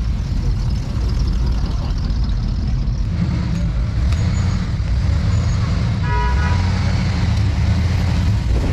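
Classic cars' engines rumbling steadily as they drive past, with a short car horn toot about six seconds in.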